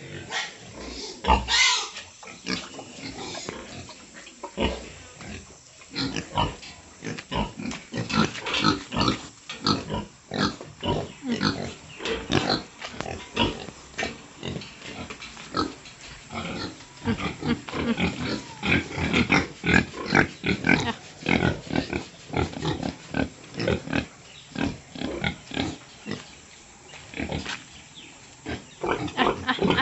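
Pigs grunting and squealing in a pen, many short calls close together throughout, with a sharp high squeal about a second and a half in.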